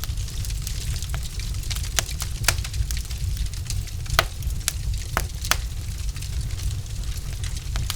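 Wood fire in a fireplace crackling, with irregular sharp pops from the burning logs over a steady low rumble of the flames.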